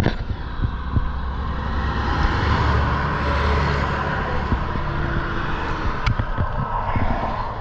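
Road traffic passing close by: a vehicle's tyre and engine noise swells about two to four seconds in and then eases off, over a steady low rumble.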